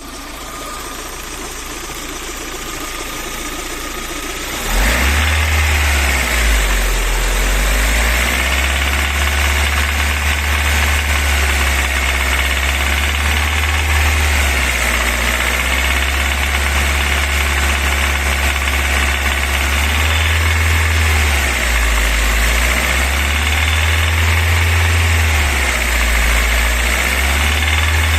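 VAZ 21124 16-valve four-cylinder engine running unloaded: quieter at first, then louder from about five seconds in, with the revs rising and falling repeatedly. It carries a ringing knock that comes in at about 1500–2500 rpm without load and goes away under load; the cause is unexplained.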